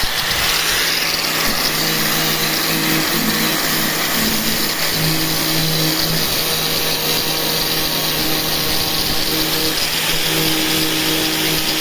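A power tool running steadily with a loud, even hiss, as in car-body repair work.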